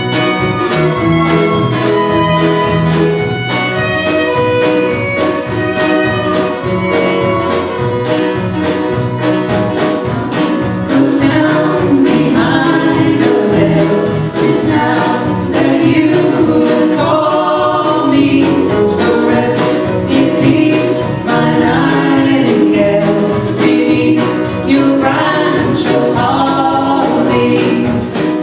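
Live performance of a song: several voices singing sustained harmonies over instrumental accompaniment that includes a fiddle.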